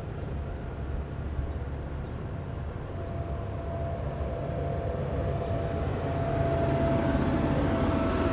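Heavy military vehicle driving past: a deep engine rumble with a steady whine, growing louder as it approaches and loudest near the end.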